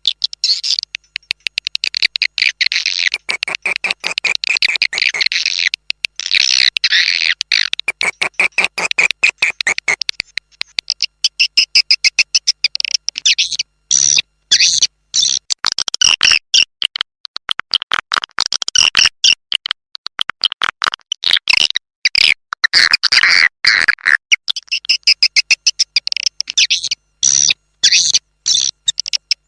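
Swiftlet lure call: the chattering calls of edible-nest swiftlets, dense high-pitched trills made of very rapid clicks, coming in runs with short breaks. It is a call recording of the kind played in swiftlet houses to draw the birds in to nest.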